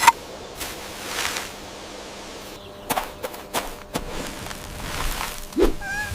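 Sound effects: a sharp whip-like crack at the start, a swish about a second in, scattered sharp clicks in the middle, then a low thud and a brief squeak near the end.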